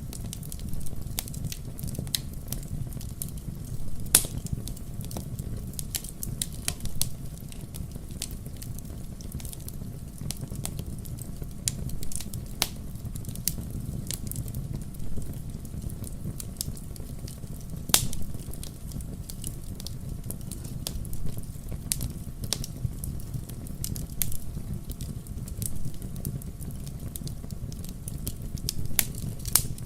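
Wood fire crackling: irregular sharp pops and snaps over a low steady rumble of burning logs, with louder pops about four seconds and eighteen seconds in.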